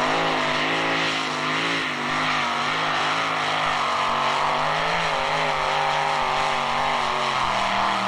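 Two-wheel-drive pulling truck's engine running hard at high revs under load as it drags the weighted pulling sled, its pitch wavering slightly up and down.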